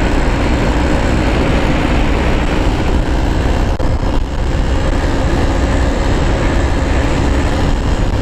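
Wind buffeting the helmet microphone through the open visor, over the Yamaha RX-King's 135cc two-stroke single-cylinder engine running steadily under way.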